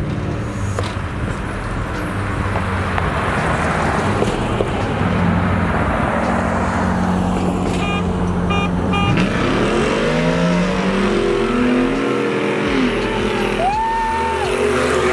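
Two vehicles racing from a standing start, a V6 and a 6.0-litre, their engines at full throttle with road noise. In the second half the engine pitch climbs and drops as the cars shift and pull away.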